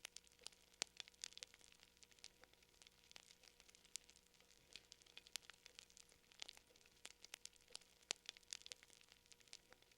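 Fire crackling faintly: irregular small pops and snaps, several a second, some sharper than others.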